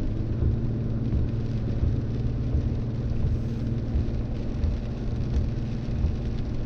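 Ram ProMaster van driving, heard from inside the cab: a steady low rumble of road and engine noise with a steady engine hum.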